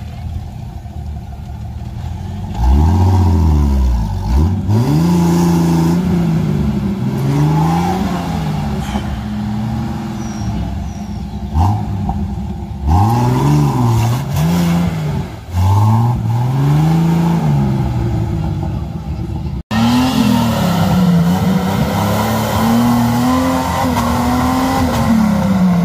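Off-road 4x4's engine revved hard in repeated bursts, its pitch rising and falling every second or two as it works under load to claw out of a steep ditch of loose earth. About two-thirds of the way through, the sound breaks off abruptly and resumes with slower, more sustained revving.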